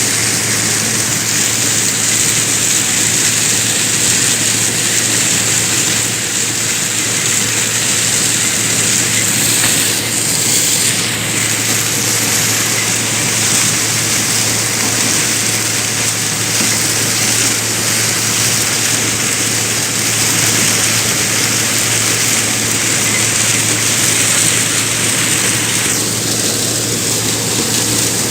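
Corn thresher running: a loud, steady mechanical noise with a constant low hum underneath.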